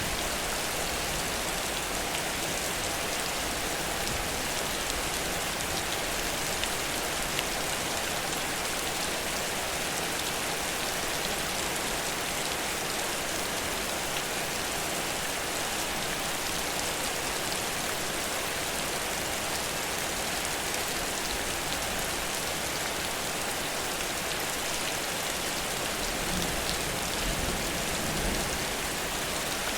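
Heavy rain falling in a steady downpour, an even hiss of drops landing on surfaces. A low rumble starts to build near the end.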